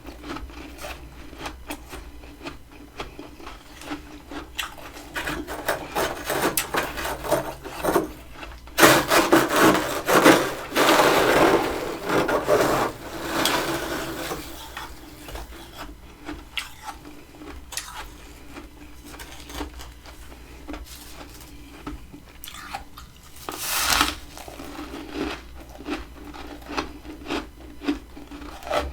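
Freezer frost ice crunching and rasping in a run of gritty crackles, densest and loudest for several seconds near the start of the second third, with a sharp crunch later on.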